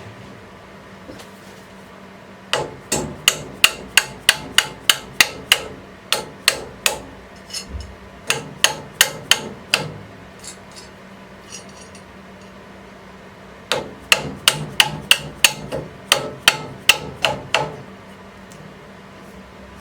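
A hammer striking repeatedly in two runs of quick, even blows, about three a second, with a pause of a few seconds between the runs.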